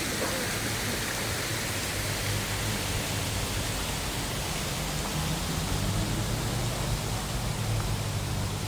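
Steady city street ambience: an even wash of noise with a low hum underneath and no distinct event standing out.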